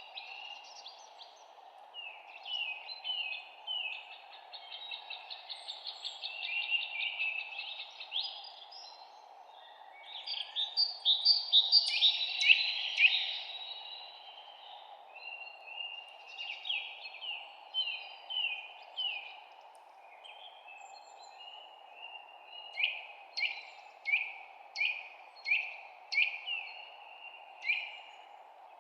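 Several songbirds chirping and singing: short downward-sliding whistled notes, a fast trill, a loud busy burst of song near the middle, and a run of evenly spaced down-slurred notes near the end. Under the birds lies steady background noise.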